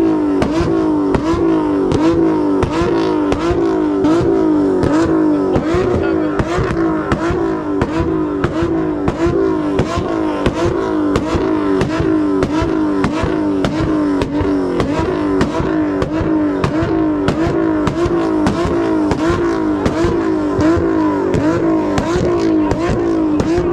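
A car engine held at high revs, loud, its pitch swinging up and down in a steady cycle of roughly once a second, with a rattling clatter running through it.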